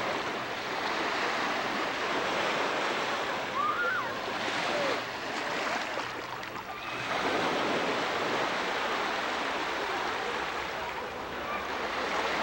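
Steady rushing of water, loud and even, easing briefly about two-thirds of the way through.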